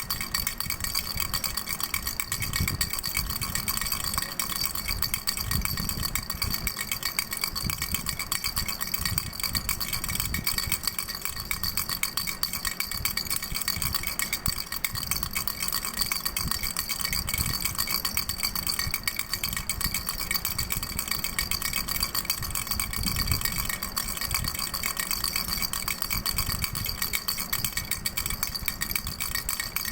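Doraemon baby rattle toy shaken fast and without pause, a dense steady rattling with a bright ringing edge.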